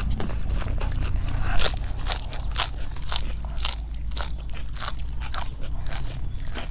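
Crunching and chewing of crisp food at the mouth, many irregular crackly bites, several a second.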